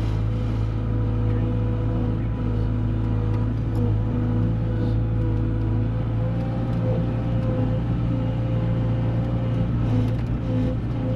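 Bobcat skid-steer loader's diesel engine running steadily.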